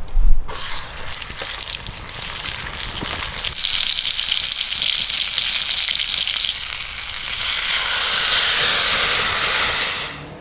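Food sizzling and frying hard in a cast iron skillet, a dense hiss that grows louder toward the end and then cuts off abruptly. A low thump right at the start.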